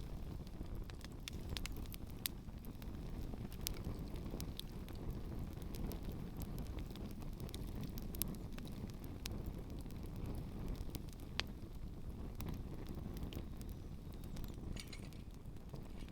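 Campfire with shoes burning on it, crackling with scattered sharp pops at irregular times over a low steady rumble.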